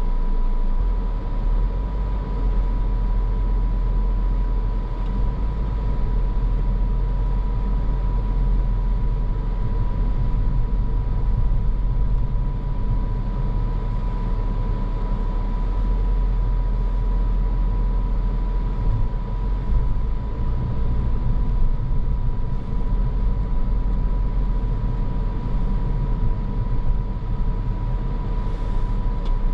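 Car driving along: steady low road and engine rumble with tyre noise, and a faint thin steady tone above it.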